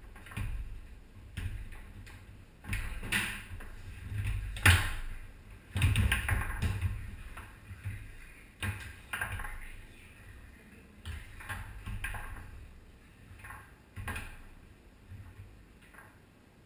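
Foosball play on a Tornado table: an irregular series of sharp clacks as the ball strikes the men and walls, over low thumps of the rods and table. The loudest strike comes a little under five seconds in.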